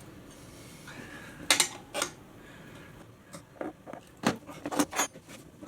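Sharp metal clinks and clicks of tools against a Honda CT110 wheel rim as the tyre bead is levered over: two about a second and a half in, then a quicker run of clinks in the second half.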